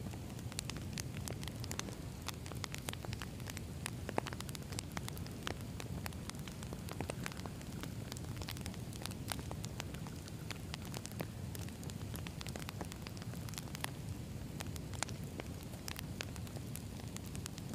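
Campfire of burning wood logs crackling: a steady low rumble of the flames with many sharp, irregular pops and snaps from the wood.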